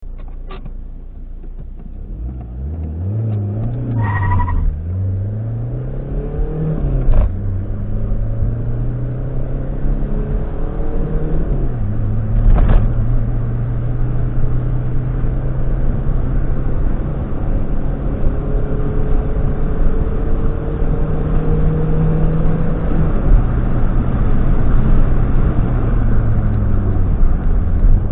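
Opel Corsa B 1.7 diesel engine accelerating hard through the gears. The engine note climbs, then drops at each gear change about 4, 7 and 12 seconds in, with a click at the shifts. After that it runs at a fairly steady, slowly rising pitch until it eases off near the end.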